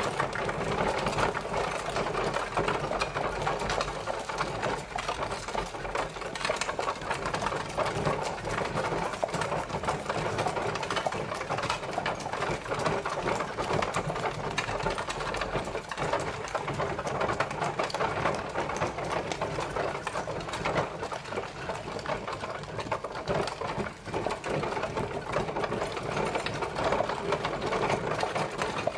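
Horse-drawn carriage travelling: a steady, dense clatter of the rolling carriage that goes on without a break.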